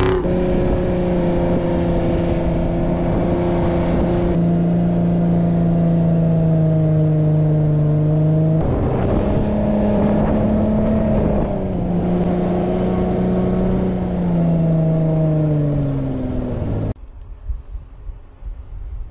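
Jeep Wrangler Rubicon engine held at high, steady revs under load. Its pitch steps up briefly about nine seconds in, falls away near the end, and then the sound cuts off abruptly.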